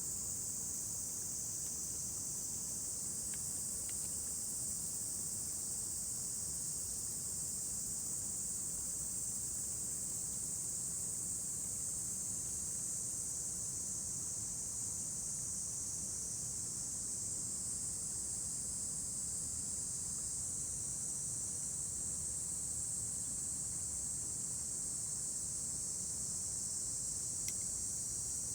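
A steady, high-pitched chorus of insects chirring without a break, with a few faint crackles from a wood campfire.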